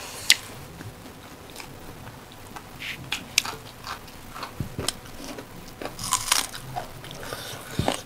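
Close-up eating sounds: chewing with scattered sharp wet mouth clicks and smacks as two people eat rice and chicken curry by hand. The loudest click comes about a third of a second in.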